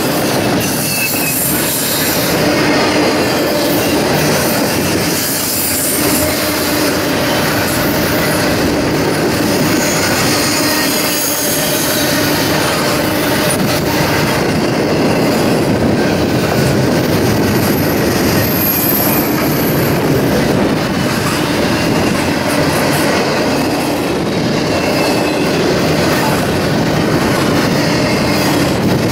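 Freight train cars rolling past steadily, wheels running on the rails with thin squealing from wheel flanges against the rail.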